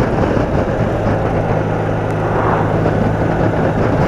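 BMW R80RT's air-cooled boxer-twin engine running at a steady pace while riding, under a heavy rush of wind and road noise.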